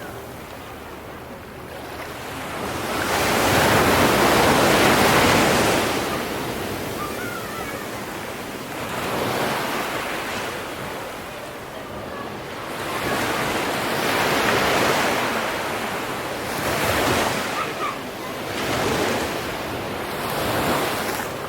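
Sea waves breaking and washing in, swelling and fading one after another. The biggest comes a few seconds in, followed by smaller ones every few seconds.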